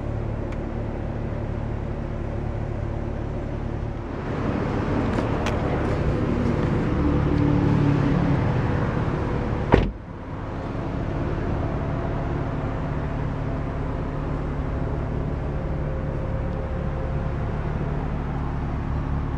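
Car engine idling with a steady low hum. From about four seconds in, a louder rush of outdoor noise builds, and it ends just before the halfway point in one sharp click.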